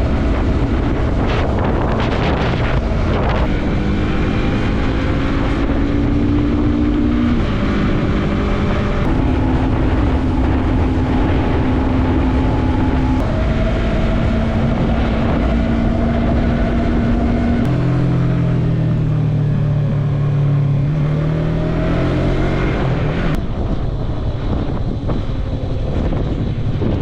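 Yamaha MT-03 motorcycle engine running under way, with wind rushing over the helmet-mounted microphone. The engine note holds fairly steady, stepping in pitch a few times. It drops lower about two-thirds of the way through, then climbs again a few seconds later.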